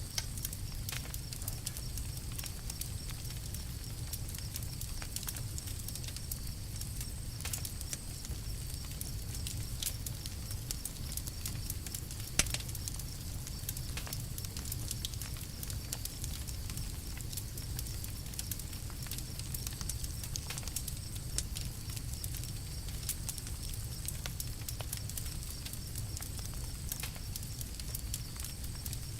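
Campfire burning, with a steady low rumble of flames and scattered sharp crackles and pops. One pop about twelve seconds in is louder than the rest.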